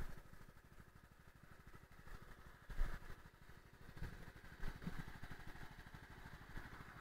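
CFMoto 300NK's single-cylinder engine idling steadily in a quiet, even run of low pulses, with a few louder thumps about three, four and five seconds in.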